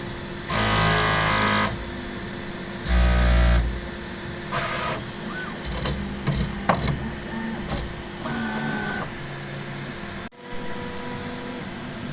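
Bambu Lab P1-series 3D printer running its pre-print calibration routine, probing the bed: its stepper motors whine in several short bursts of movement, each lasting a second or less, with quieter hum between.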